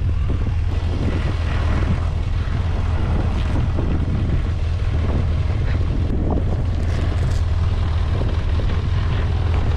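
A steady, loud low engine rumble, like a large vehicle or ship running, with faint scattered sounds above it.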